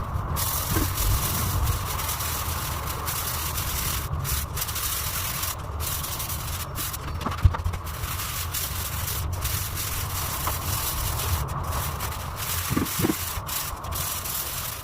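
Spatula rubbing and scraping wall putty across a wall in repeated strokes, with brief breaks between strokes and a sharp click about seven and a half seconds in.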